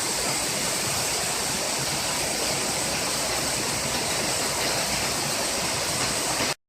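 Waterfall rushing with a steady, even roar of falling water, cutting off suddenly near the end.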